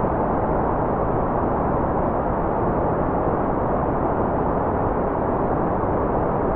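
Steady white noise: an even, unchanging hiss with its weight in the low and middle range and little treble, so it sounds dull rather than bright.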